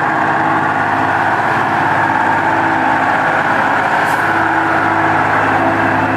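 Ural-4320 military truck's diesel engine running steadily, with a constant, unchanging engine tone.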